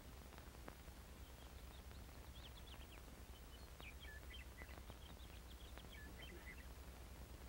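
Near silence on an old film soundtrack: faint, scattered bird chirps over a steady low hum and hiss, with a few light clicks.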